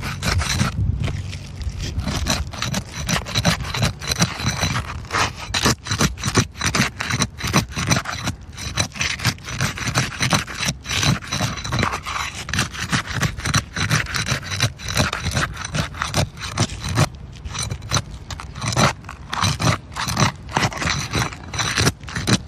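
Metal pry tool scraping under asphalt roof shingles and tearing their tar-strip seals loose, a continuous irregular crackling scrape. This is done to free the shingles so their nails can be pulled.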